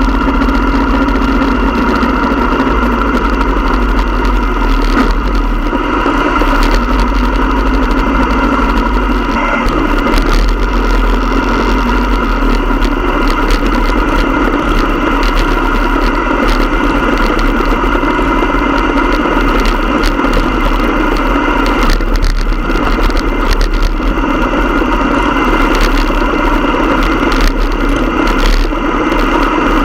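Motorcycle engine running steadily, its pitch and loudness holding level with no revving.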